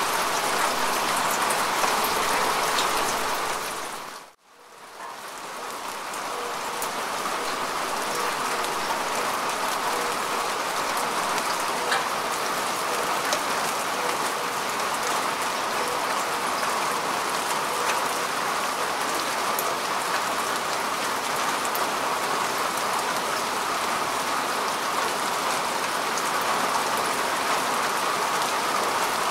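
Steady rain falling on grass and earth: a dense, even patter with fine individual drop ticks. About four seconds in the sound fades almost to silence and swells back up over a second or two.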